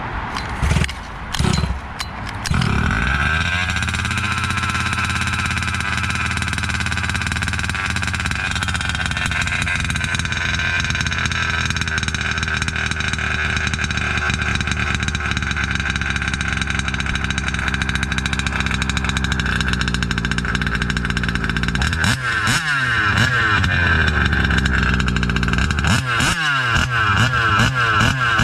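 29cc reed-valve two-stroke engine of a large-scale RC car on a speed run. A few short throttle blips, then it winds up to full revs and holds a high, steady note. In the last few seconds the pitch swings rapidly up and down.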